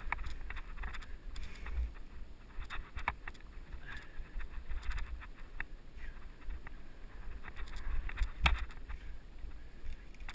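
Mountain bike rolling over a dirt trail, heard from a helmet camera: a steady low rumble of wind on the microphone with scattered clicks and rattles from the tyres and bike, and a sharper knock about eight seconds in.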